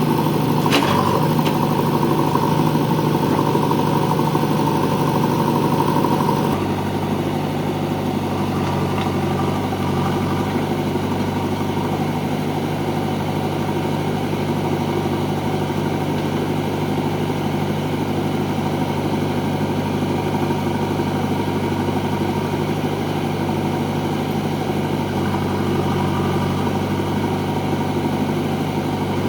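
Diesel engine of heavy farm machinery running steadily, with a brief clank about a second in. About six seconds in the engine note drops in level and loses some of its higher tones, then runs evenly.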